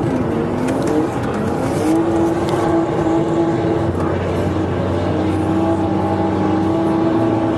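BMW E30 engine revving up over the first two seconds, then held at steady high revs.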